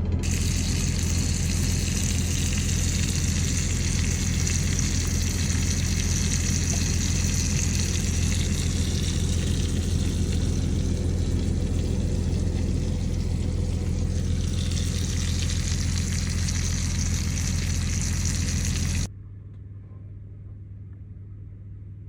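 Steak, mushrooms and onions sizzling in a frying pan over a steady low hum. The sizzling cuts off abruptly about 19 seconds in, leaving only a quieter hum.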